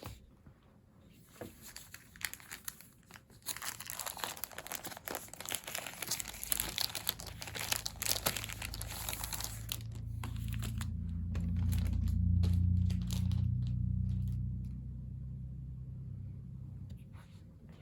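Plastic packaging crinkling and tearing as wrapped merchandise items are opened by hand. About ten seconds in, a low rumbling hum rises, peaks, then fades.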